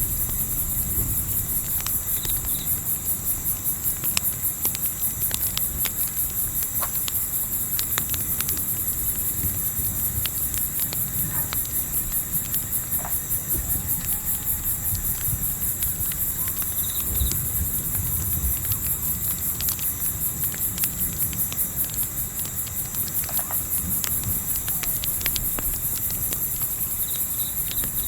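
Night ambience of crickets chirping steadily in a fast, even pulse, with scattered sharp crackles and pops from a campfire over a low rumble.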